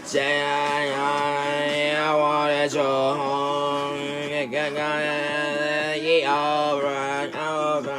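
Sustained singing with long held, wavering notes over a steady low drone-like tone, phrases breaking briefly about a second in, near three seconds and around seven seconds in.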